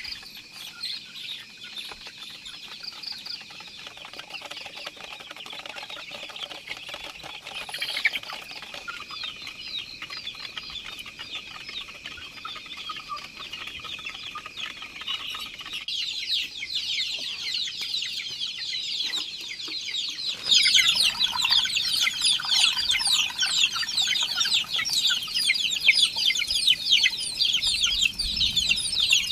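A flock of chickens clucking and cheeping in a dense, busy chatter, growing busier about halfway through and louder about two-thirds of the way in.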